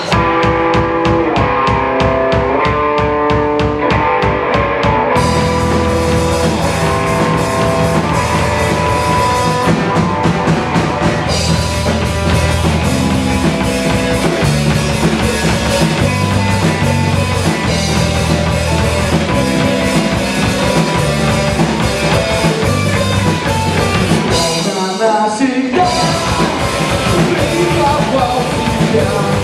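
Rock band playing the instrumental intro live on electric guitar and drum kit. A guitar riff with a steady beat opens it, and the full band comes in about five seconds in. There is a brief break near the end before the full band resumes.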